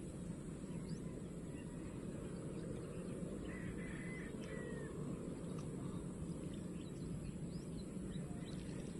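Outdoor rural ambience: a steady low rumble, with a bird giving a short run of calls about halfway through and small high chirps after.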